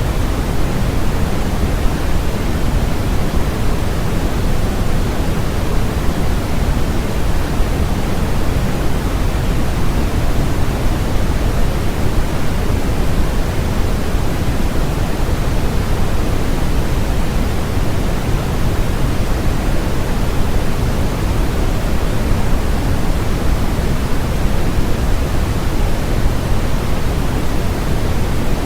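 Continuous generated noise of the kind sold as white noise for sleep, an even hiss weighted toward the low end, steady and unchanging throughout.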